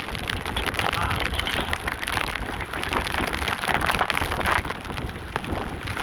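Heavy tropical rain pattering steadily, with gusts of wind rumbling on the microphone.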